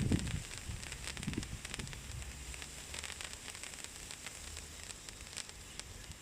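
Ice sparkler firework burning with a dense crackling fizz that thins out and dies down toward the end. A few low thumps come in the first couple of seconds.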